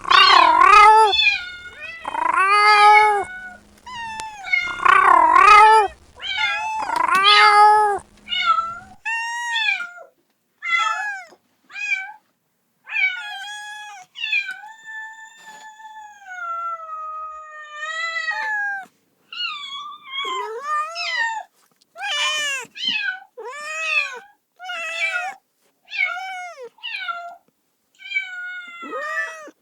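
Kitten meowing over and over, the cries of a kitten calling for its mother. The first few meows are loud and long, with a faint hum beneath them; after that come many shorter meows and, about halfway through, one long drawn-out meow.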